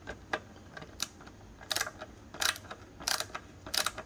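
A threaded fitting on a shower panel being tightened: a few small clicks, then short rasping strokes about one every 0.7 s as it is turned.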